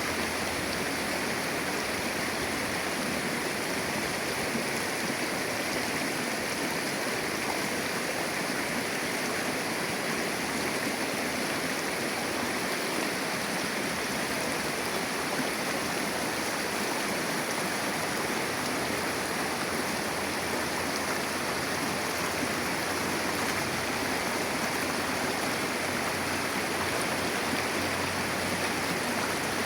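Shallow river water flowing, a steady even rush with no change in level.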